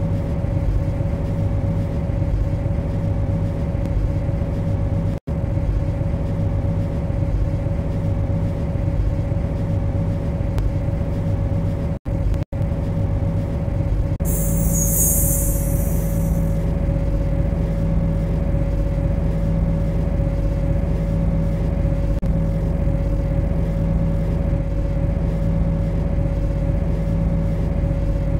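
MTR C-Train electric multiple unit heard from the driving cab: a steady low rumble and electrical hum, with a short hiss of air starting about 14 seconds in. The sound cuts out for an instant twice, near 5 and 12 seconds.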